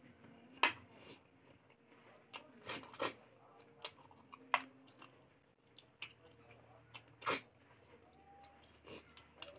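Close-up eating sounds of a person chewing a mouthful of pork and rice: irregular crunches and clicks, a few of them sharper and louder.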